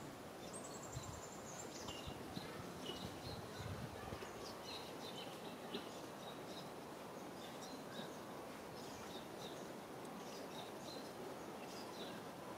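Small birds chirping in the background over a steady faint hiss: short high chirps every second or so, with a brief high trill near the start.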